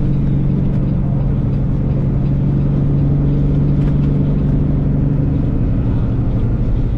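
Semi-truck's diesel engine droning steadily at highway cruise, heard from inside the cab over low road rumble.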